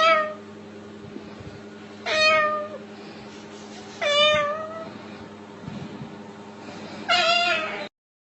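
Repeated cat-like meows: four calls, each under a second long and about two seconds apart, over a steady low hum. The sound cuts off suddenly just before the end.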